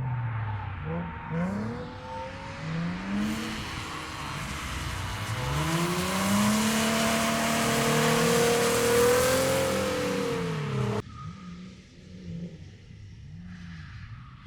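Drift car engine revving hard, its pitch sweeping up and down with the throttle, over loud tyre squeal and hiss as the car slides, loudest around eight to ten seconds in. About eleven seconds in it cuts off suddenly and quieter engine revving rising and falling takes over.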